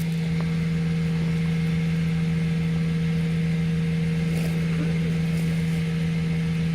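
Septic pump truck's engine running steadily to drive the vacuum pump, a constant hum with a fast, even low pulsing.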